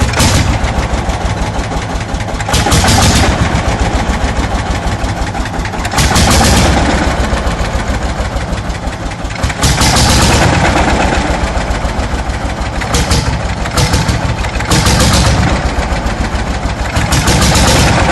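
An engine running steadily with a fast, even firing beat. Every few seconds it is broken by short surges of loud hissing noise.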